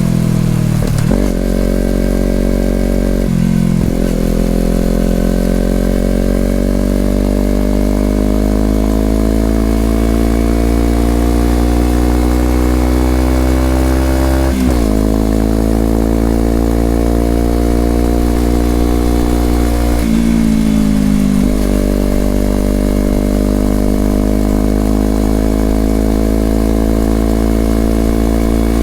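2020 Honda CBR250RR's parallel-twin engine through an Over Racing aftermarket exhaust, under way: the exhaust note climbs slowly and steadily in pitch, with brief breaks at the start, about three seconds in, around fourteen seconds and around twenty seconds.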